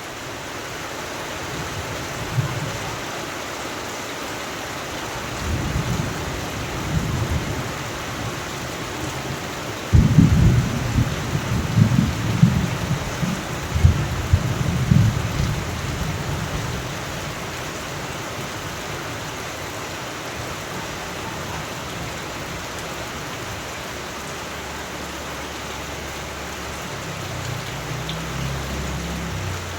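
Steady rain with thunder: a low rumble about five seconds in, then a sudden loud peal about ten seconds in that rolls on for several seconds, and a fainter rumble near the end.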